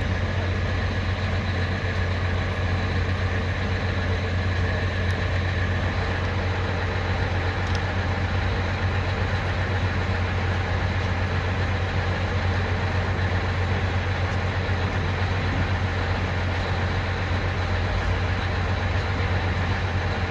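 Mount Washington Cog Railway train running, with a steady low engine drone.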